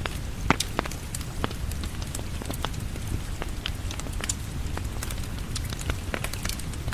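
Wood fire crackling over steady rain. Irregular sharp pops and snaps come throughout, the loudest about half a second in, over a low, even rumble of rain.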